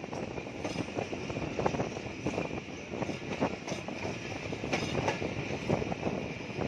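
A passenger train running along the line, heard from inside a coach. There is a steady rumble of wheels on rail, broken by many irregular clicks and rattles.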